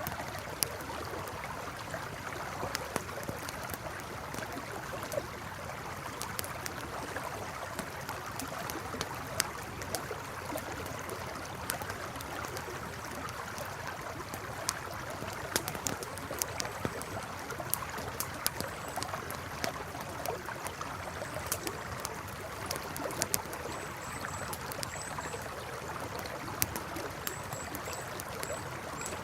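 Campfire crackling, with frequent sharp pops and snaps, over the steady rush of a flowing river. A few faint high chirps come in the second half.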